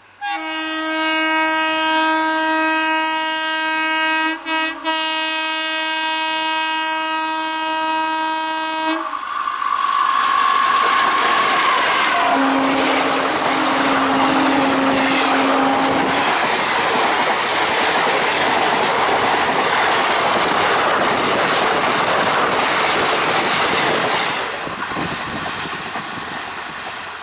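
Express train's horn sounds one long blast of about nine seconds, briefly broken around four seconds in, followed by two shorter horn notes. Passenger coaches pass close by with a steady rattle and rumble of wheels on the rails, which fades over the last few seconds as the train moves off round the curve.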